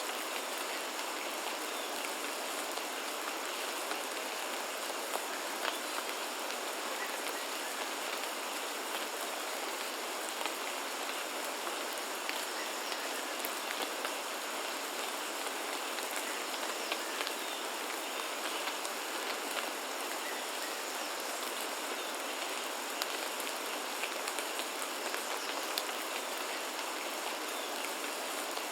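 Steady rain falling, a dense even patter sprinkled with the clicks of individual drops striking leaves and surfaces, with no low rumble beneath it.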